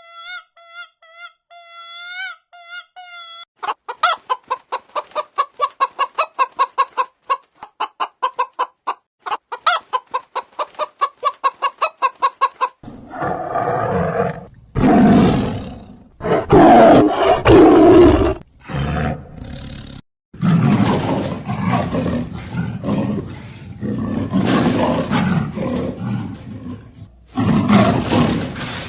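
A string of animal calls joined by abrupt cuts: a few high, pitched peeping calls, then a fast run of short repeated clucks, then louder, rough, noisy calls that stop and start suddenly.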